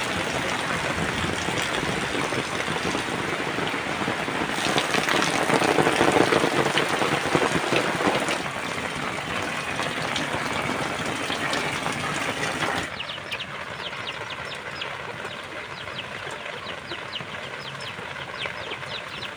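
Heavy rain falling steadily, heaviest about five to eight seconds in. About thirteen seconds in it drops suddenly to quieter rain with many small, sharp ticks.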